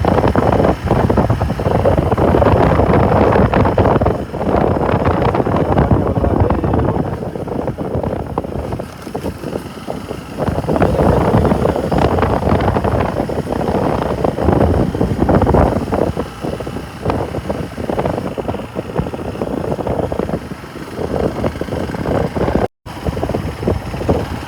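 Motorcycle riding at speed, its engine running under heavy wind buffeting on the microphone. The sound cuts out for an instant near the end.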